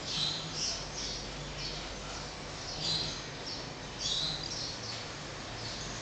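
Small birds chirping: short clusters of high chirps every second or so, the loudest just after the start, about three seconds in and about four seconds in.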